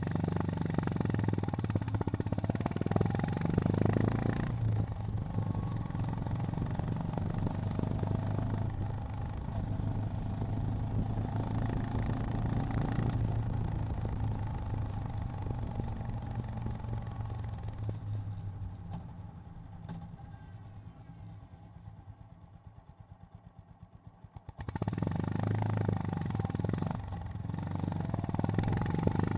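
Honda GB350's air-cooled single-cylinder engine running under way, a steady low engine note. About two-thirds through it eases off and goes quieter for several seconds, then opens up again sharply near the end.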